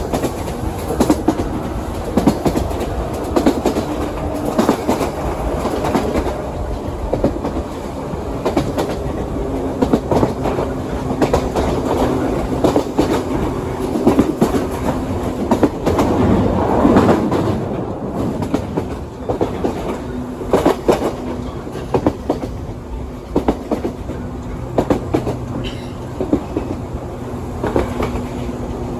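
Ride noise heard from inside a JR 117 series electric train in motion: a steady rumble with the wheels clicking over rail joints throughout, and a low hum that comes and goes.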